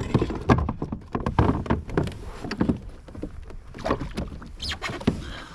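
Irregular knocks, clatter and splashy water noise on a fishing kayak, several sharp knocks a second at uneven spacing.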